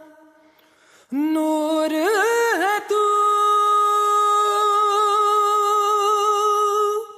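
Song vocal without words: after a brief pause, a singer's voice slides up into a note, makes a few quick ornamented turns, then holds one long steady note, with light accompaniment.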